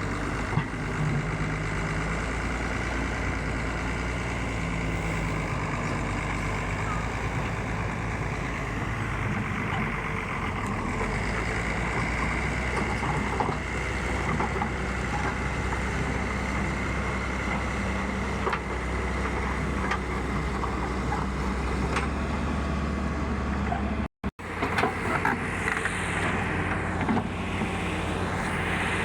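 Excavator's diesel engine running steadily under load, with a few short knocks from the machine at work. The sound drops out for a moment about 24 seconds in, then carries on.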